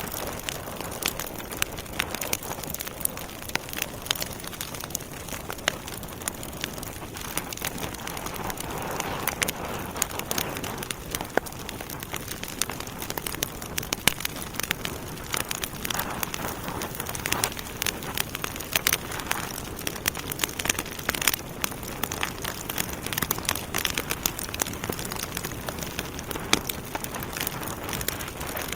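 Wood fire burning in a fireplace: steady hiss with frequent irregular crackles and pops from the burning logs.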